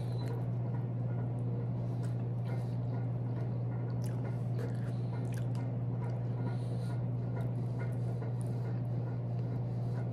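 Close-up mouth sounds of eating chicken feet by hand: wet chewing, biting and scattered smacking clicks, over a steady low hum.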